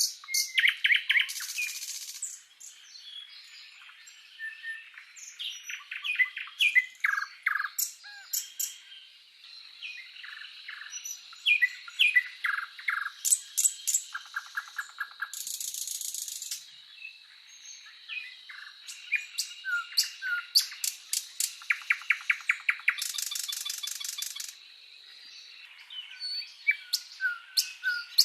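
Several songbirds singing and chirping: a busy mix of short whistled notes, quick chirps and rapid trills. Two longer buzzy trills come about halfway through and again a few seconds before the end.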